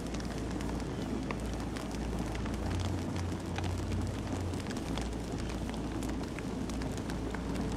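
Campfire burning: a steady low rush from the flames, with frequent sharp crackles and pops from the burning wood.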